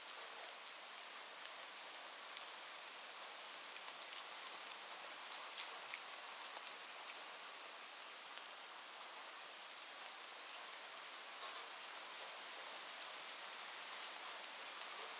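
Steady rainfall, an even hiss with scattered sharp ticks of single drops landing.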